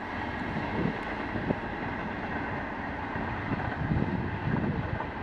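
Steady rumble and hiss of a vehicle in motion, with no clear rhythm or distinct events.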